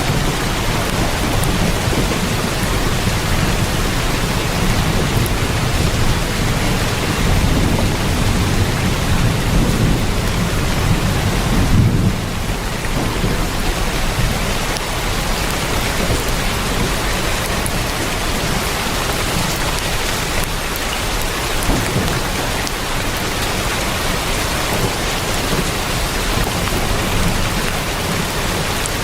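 Heavy rain falling on a tin roof: a dense, steady hiss. A low rumble swells under it over the first dozen seconds, then drops away suddenly.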